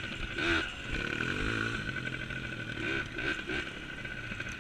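Small dirt bike engine running, with a few short revs about half a second in and again around three seconds in.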